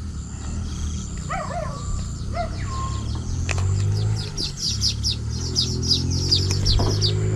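Wild birds calling: a few short whistled calls about a second in, then a fast run of high chirps, about five a second, for some three seconds, over a steady low hum.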